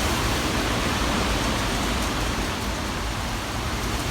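Strong, gusty wind buffeting the microphone: a steady rushing roar with heavy low rumble.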